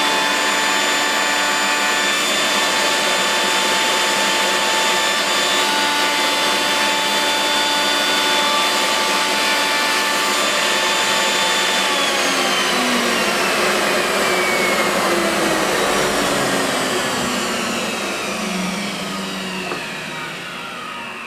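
Router with a round-over bit running at full speed with a high whine, then switched off about twelve seconds in and winding down, its pitch falling and the sound fading toward the end.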